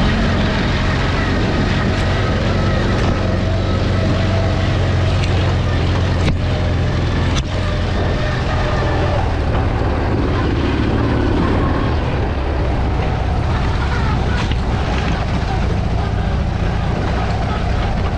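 Enduro motorcycle engine running under way, with wind and riding noise. A few sharp knocks come through, about six, seven and a half and fourteen seconds in.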